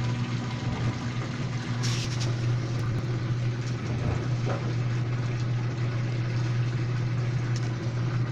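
Washing machine running with a steady low motor hum, and a short hiss about two seconds in.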